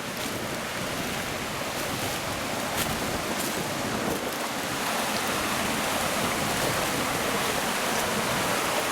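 Steady rush of flowing water from a forest stream, slowly growing louder, with a few faint clicks.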